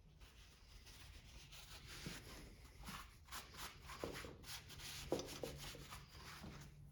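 Faint rubbing and scraping of hands and tools on small-engine parts during disassembly, with a few light knocks, the sharpest about five seconds in.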